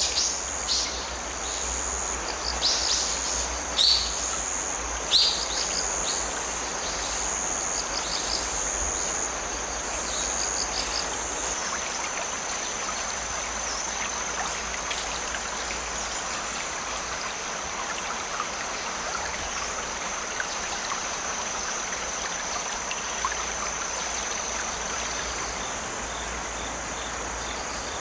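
A creek flowing, with a steady high trill of autumn crickets or other grass insects throughout. Birds chirp in short calls during roughly the first ten seconds, and a few single sharp clicks are heard later.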